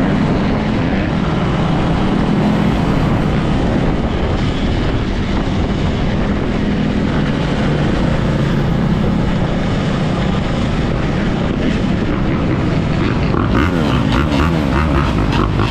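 Off-road motorbike riding at a steady pace, its drive running continuously with a constant low hum; the sound shifts near the end.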